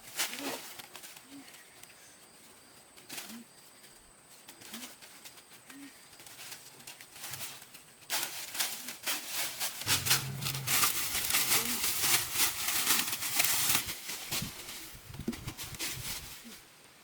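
Low bird calls repeat about once a second, then loud crackling rustling takes over about halfway through for several seconds.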